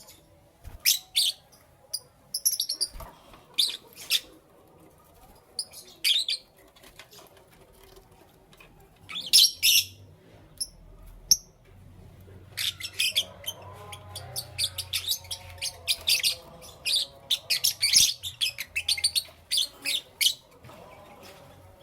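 Lovebirds chirping: short, sharp, high chirps, scattered at first, then rapid and nearly continuous from about halfway until shortly before the end.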